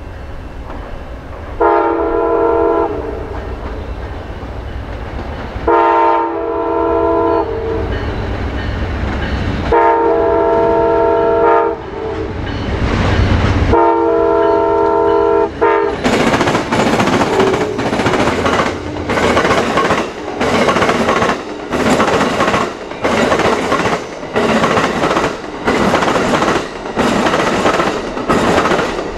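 Diesel train's multi-note air horn sounding four long blasts over the rising rumble of the approaching locomotive. Then the train passes close by, its wheels clattering over the rail joints in a steady beat of about one per second.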